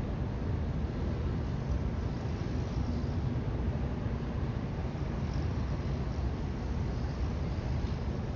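Steady low rumble with a fainter hiss over it, unchanging and without distinct events: outdoor ambience in freezing weather.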